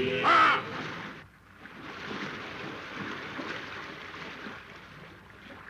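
A brief loud pitched tone in the first second, then a steady hissing wash of noise on an old film soundtrack, with the character of wind or water.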